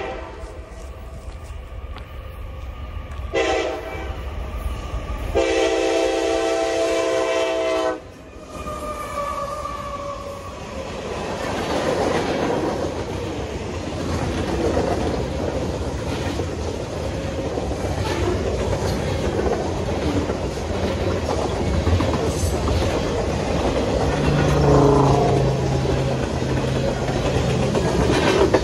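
A freight train's air horn finishing its crossing signal: a short blast about three seconds in, then a long one that ends about eight seconds in. The train then runs through, and a long string of tank and covered hopper cars rumbles past on steel wheels with a steady clatter over the rail.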